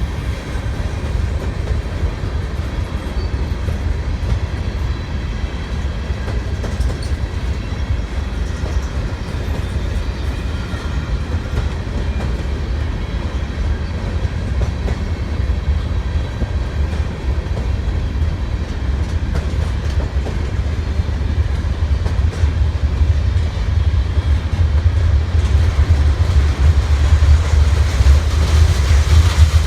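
Freight train rolling past, its cars giving a steady low rumble with clickety-clack over the rail joints, growing a little louder near the end.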